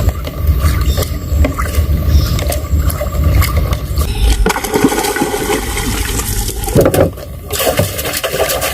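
Water splashing and sloshing, with a heavy low rumble through the first half.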